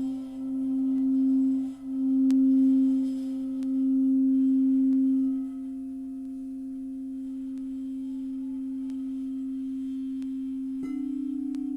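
Singing bowl ringing one steady low tone that swells and dips in slow waves, then rings on more quietly. About a second before the end, a second bowl with a slightly higher tone is struck and rings alongside it.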